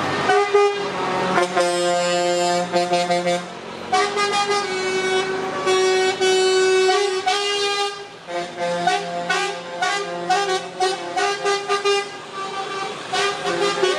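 Lorry air horns sounding as a convoy of trucks passes: long held blasts, then a run of short, quick toots from about eight seconds in.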